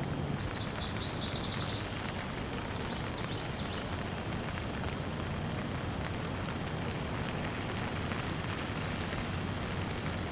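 Steady rain falling, with a rapid high trill in the first two seconds and a shorter, fainter one about three seconds in, from a bird.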